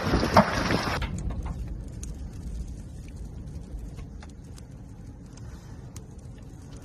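Strong wind buffeting the microphone, with a sharp knock a little under half a second in. The wind cuts off abruptly about a second in, leaving a low, steady rumble with faint scattered clicks.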